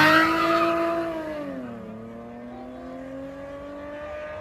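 A drag car's engine accelerating hard away down the strip, its pitch dropping at a gear change about two seconds in and then climbing again. The sound fades quickly as the car pulls away.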